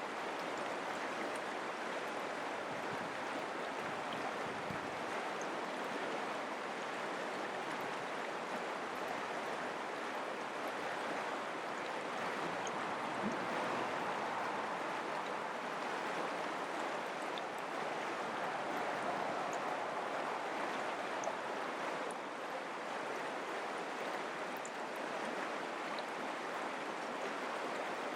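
Mountain creek flowing: a steady rush of running water.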